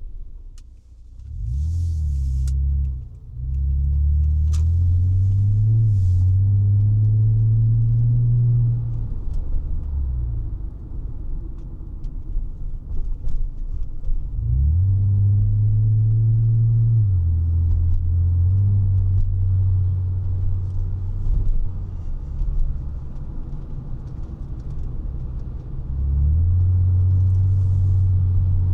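1999 Honda Legend's 3.5-litre V6 exhaust, recorded raw, droning low as the car drives. Its pitch climbs under acceleration and drops back at gear changes and lift-off, with a stretch of steady cruising in the middle and another climb near the end.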